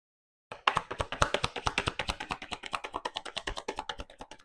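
Tarot cards being shuffled by hand: a rapid, even run of clicks, about a dozen a second, starting about half a second in and stopping suddenly near the end.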